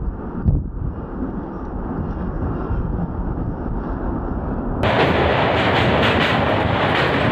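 Passenger train running on the track, heard at an open coach door; about five seconds in, it rolls onto a steel truss bridge and the sound jumps to a louder, brighter clatter of wheels and steelwork.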